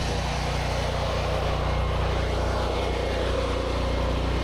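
Pressure washer running steadily, its engine droning under the hiss of water spraying from the wand during rinsing.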